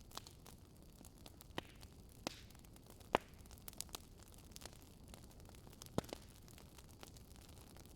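Wood fire crackling: sharp pops and snaps at irregular intervals over a faint steady hiss, the loudest pops a little after three seconds in and at about six seconds.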